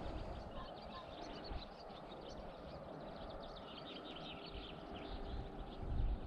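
Small birds singing in quick chirps and twitters over a steady outdoor background, with wind rumbling on the microphone near the end.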